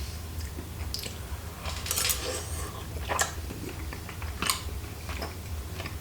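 Close-up chewing of chewy rice cakes in sauce, with a few sharp clicks of a spoon against the dish, over a low steady hum.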